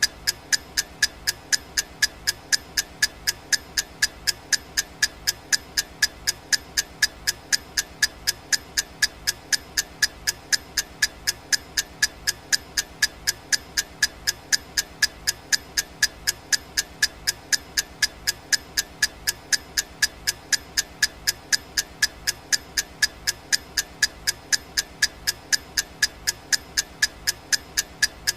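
Clock ticking sound effect: sharp, evenly spaced ticks, about three a second, keeping a steady pace.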